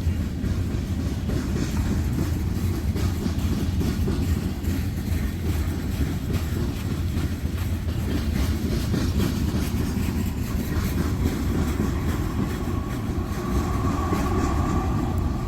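Freight train cars, including tank cars, rolling past at close range: a steady low rumble of wheels on rail with faint rhythmic clicking over the rail joints. A thin, high whine joins in near the end.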